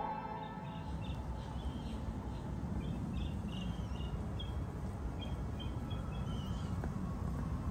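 A small bird chirping, short notes repeated many times, over a steady low rumble of outdoor background noise.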